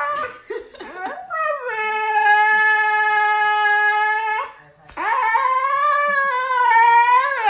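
A dog howling: a few short whimpers, then two long howls. The first is held at one pitch; the second wavers and rises near the end.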